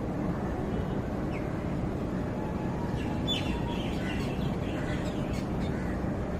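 Several short, high bird calls, mostly bunched in the second half, over a steady low background noise.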